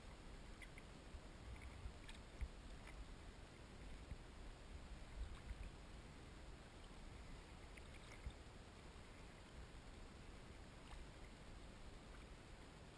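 Faint sounds of a kayak on the water: a few small splashes and knocks over a low, steady rumble.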